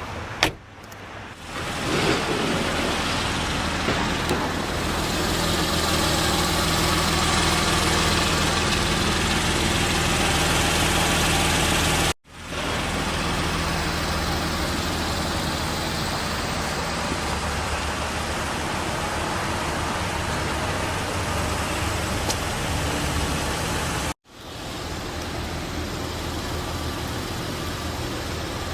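Porsche Cayman R's 3.4-litre flat-six running steadily under a loud rushing noise, with a sharp knock just after the start. The sound cuts out suddenly twice and comes back each time.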